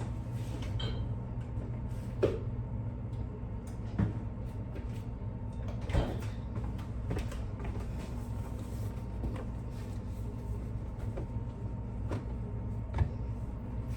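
Kitchen cupboard doors and things being handled, giving a few sharp knocks about two, four, six and thirteen seconds in, over a steady low hum.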